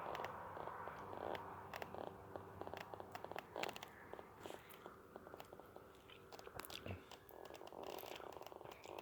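A person biting into and chewing a bitter tree fruit close to the microphone: a string of small, irregular crunchy clicks.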